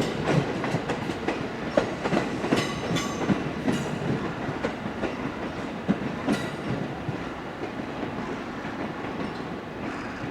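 Wheels of a locomotive-hauled train, an EF64 electric locomotive with E217 series cars, clattering over rail joints and points with a steady rumble underneath. The clacks come thick for about seven seconds, then thin out and the sound fades a little as the train moves off.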